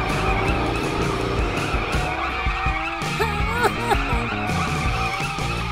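Cartoon race sound effects: car engines running and tyres skidding over background music, with a few short squealing pitch glides about three seconds in.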